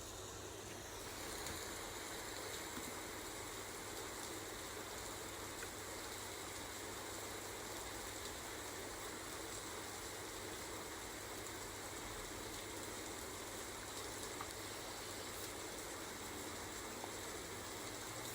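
Steady rain ambience, a faint even hiss, which grows a little louder about a second and a half in.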